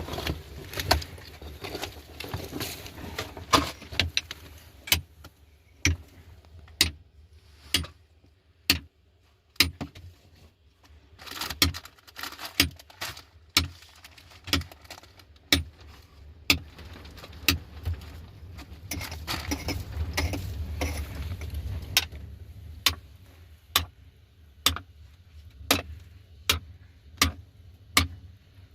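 A series of sharp knocks or strikes, irregular at first and then steady at about one a second near the end, with rustling between them.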